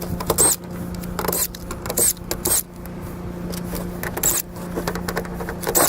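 A steady low mechanical hum, with about six sharp metallic knocks and clanks spread irregularly over it.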